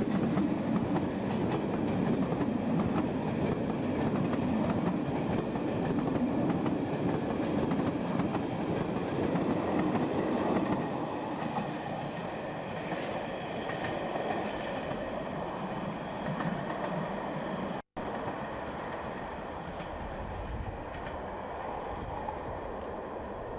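SBB passenger train rolling past at close range behind a Re 460 electric locomotive, its wheels rumbling and clattering. About ten seconds in it grows quieter as the train pulls away. Near the end the audio cuts out for a split second.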